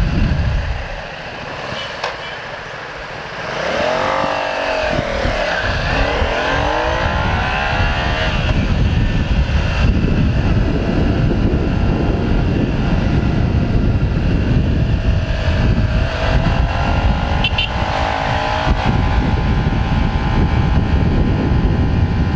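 Motorcycle on the move: wind buffeting the microphone over the engine's running. About four seconds in the engine note climbs and falls for a few seconds, and it does so again a little past the middle.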